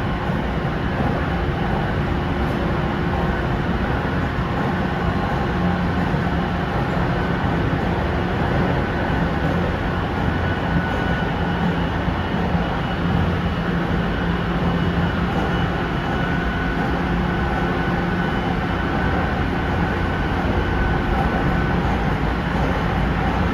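Tsukuba Express train running between stations, heard from inside the car: a steady rumble of wheels on rail with a faint, even hum.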